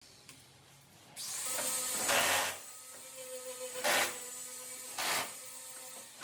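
Workshop tool sound: a steady mechanical whine from about a second in, with short, loud bursts of hissing noise every second or two.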